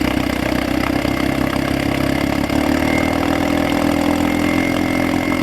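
6 hp Sea King two-stroke outboard motor running steadily out of gear, its lower unit in a bucket of water for cooling; the engine note shifts slightly about halfway through. It is running pretty darn good after sitting unused for a long time.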